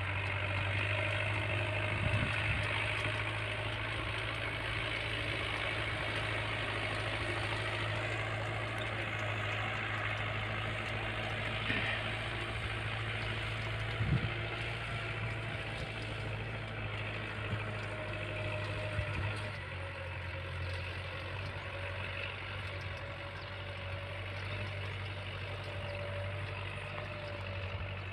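Tractor engine running steadily with a deep hum while pulling a plough, with a few short knocks, the loudest about fourteen seconds in; the engine note eases slightly about twenty seconds in.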